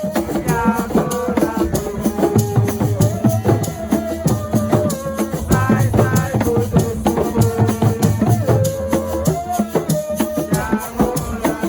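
Assiko music: fast, even rattle strokes and low drum beats drive the rhythm, with a wavering melody line over it.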